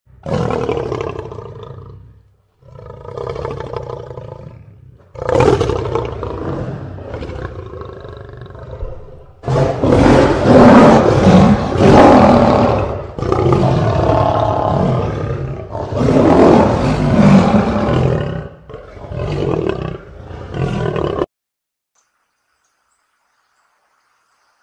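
Lion roaring: a run of long, loud roars, the loudest in the middle stretch, that stops suddenly.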